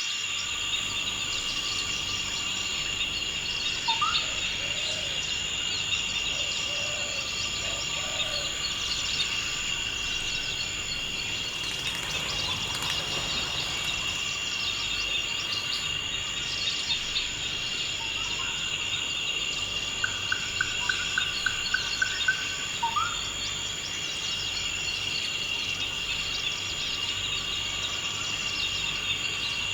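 Forest ambience: a steady, high-pitched insect chorus runs throughout, with occasional short rising bird calls. Around two-thirds of the way through, a bird gives a quick run of about eight notes.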